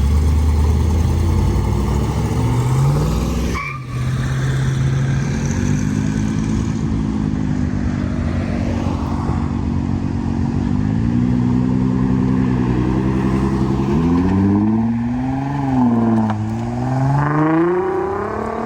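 Car engine running and revving, its pitch stepping up, holding, dropping and rising again several times, with a brief break about four seconds in.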